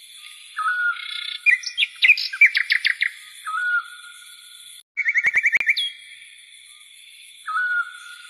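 Small songbirds chirping: a short whistled note repeated every few seconds, with rapid chirping trills about two and five seconds in, over a steady high-pitched background tone.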